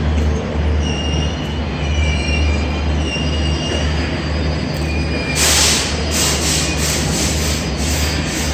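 Passenger coaches of the arriving Garib Rath Express rolling past slowly over a steady low rumble, their wheels squealing on the rails in thin high tones. About halfway through, a run of loud, repeated hissing bursts sets in.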